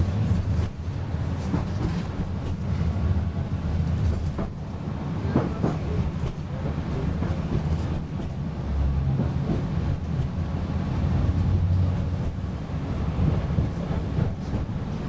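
PESA Fokstrot tram running between stops, heard from inside the passenger cabin: a steady low rumble of motors and wheels on the rails, with a few short knocks from the track.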